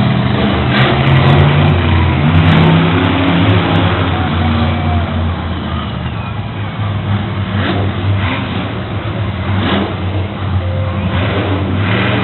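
Monster truck engine revving loudly, its pitch rising and falling over the first few seconds, then running steadier.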